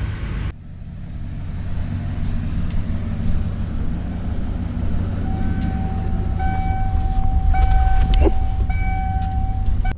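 Farm harvest machine's engine running steadily with a low rumble in the cab. From about halfway an electronic warning beep sounds in several long pulses.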